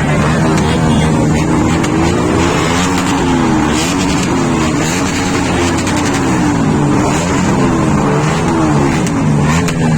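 Superbike engine running hard, its pitch rising and falling again and again as the throttle is worked.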